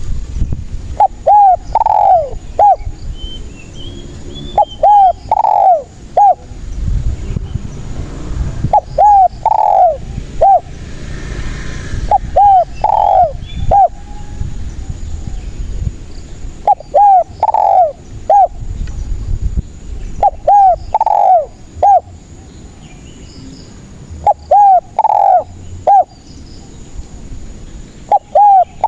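Spotted dove (tekukur) cooing in repeated phrases about every four seconds. Each phrase has two short coos, a longer, louder, downward-bending coo and a short final note.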